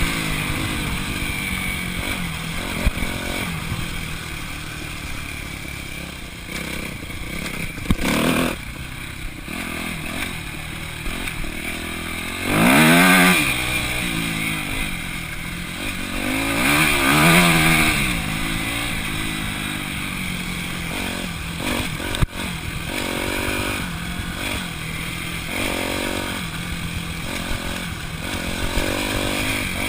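Dirt bike engine heard from the rider's chest mount, revving up and down as it is ridden along a trail, with a few louder rev-ups through the middle and one sharp click.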